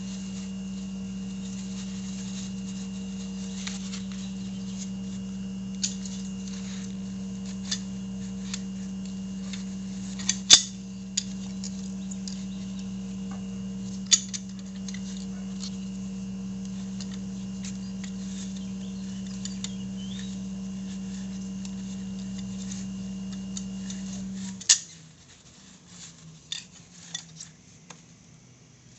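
Light metallic clicks and clinks of hand tools and brake parts being handled, a sharp one about ten seconds in, over a steady machine hum that cuts off with a click near the end.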